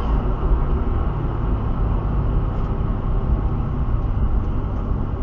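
Steady low rumble of a car running, engine and road noise with no change in pitch.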